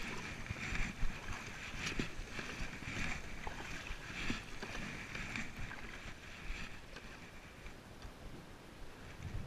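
Water splashing and sloshing around a kayak in regular surges about once a second, fading toward the end.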